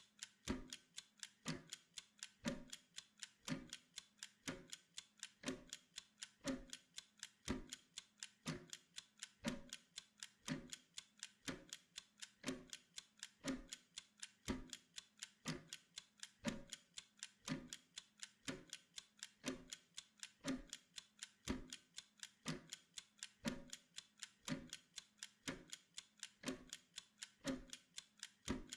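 Steady clock ticking at about two ticks a second, every other tick heavier, in an even tick-tock.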